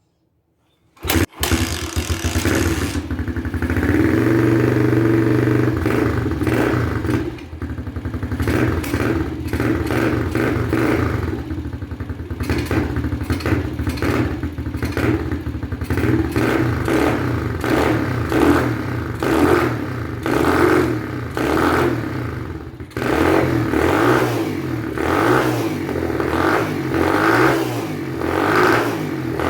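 XPRO Hawk 150cc pit bike's single-cylinder four-stroke engine starting about a second in and running, fitted with a new high-flow air cleaner in place of the restrictive stock airbox. It is revved up early on, then blipped over and over, about once a second, in the second half.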